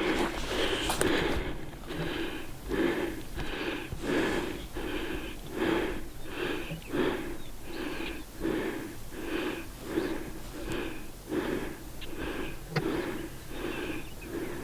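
A person breathing hard and rhythmically, about two wheezy, voiced breaths a second.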